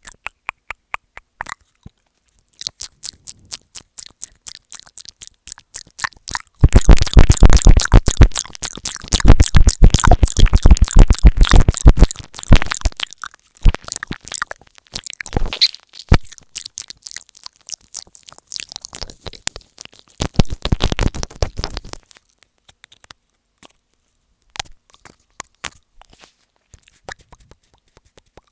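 ASMR mouth sounds made right against an earphone microphone ('mic eating'): rapid wet clicks and smacks. Dense, very loud mouthing on the mic runs from about a quarter of the way in to nearly halfway, and comes again briefly about three-quarters through, with sparser clicks around it.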